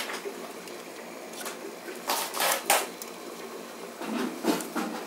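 Heavy rain pouring down, a steady hiss with louder bursts of splashing and spattering about two seconds in and again near the end.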